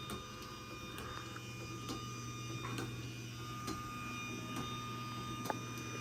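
Craftsman 139.57915 garage door opener running under its own motor: a steady hum and whine with a light tick about once a second, winding down at the very end as the run stops.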